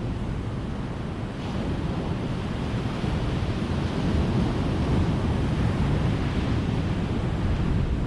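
Ocean waves breaking in a steady rush of surf, swelling about a second and a half in and staying louder through the rest.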